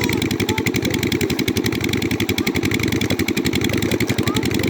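An engine running steadily with a fast, even pulse. A few faint short bird chirps sound over it.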